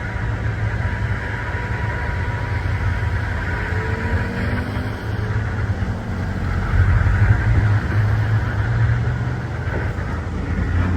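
Vehicle engine running steadily with a low rumble, a thin steady tone over it through the first half, and the rumble growing a little louder about two-thirds of the way in.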